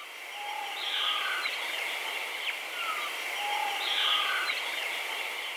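Birdsong ambience: short bird calls and falling whistles over a steady high hiss, the same run of calls repeating about every three seconds.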